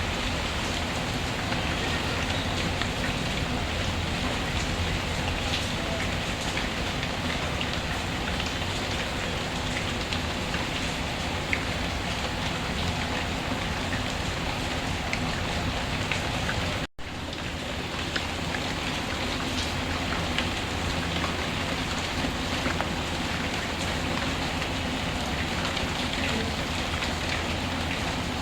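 Steady rainfall with scattered small crackles of a burning wood fire. A little past halfway the sound cuts out for an instant, a gap at a loop seam, and then carries on.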